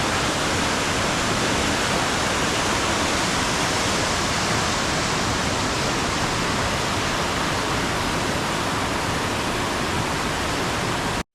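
A waterfall about 20 metres high pouring close by: a steady, dense rush of falling water. The sound cuts out for an instant near the end.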